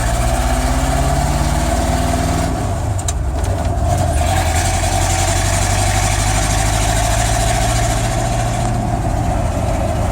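Old pickup truck's engine running steadily at low revs, not yet well warmed up. About three seconds in it dips briefly with a few clicks, then runs on fuller for several seconds before settling back.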